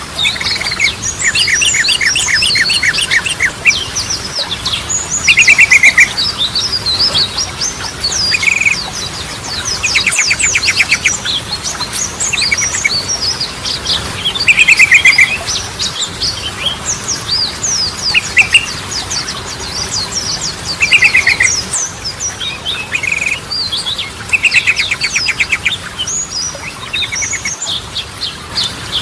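Yellow-vented bulbul (trucukan) singing: a busy run of chattering, whistled phrases broken by short, fast rattling trills that come again every couple of seconds.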